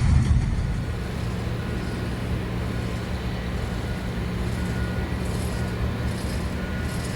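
Freight train rolling past: a steady low rumble of engines and rolling cars, with faint short high-pitched tones repeating about once a second.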